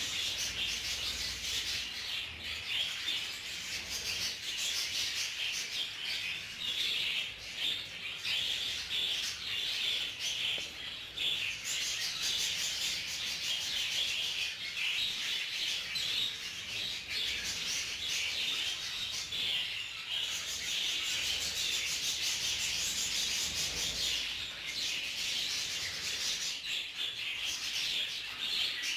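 Budgerigars chattering continuously: a dense, scratchy stream of rapid chirps and warbles.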